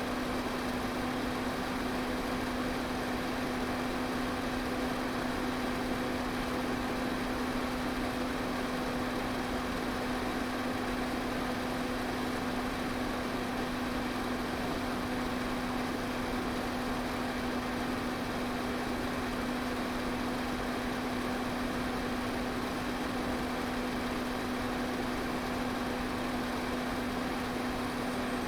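Electric pedestal fan running steadily: an even rush of air over a constant low motor hum.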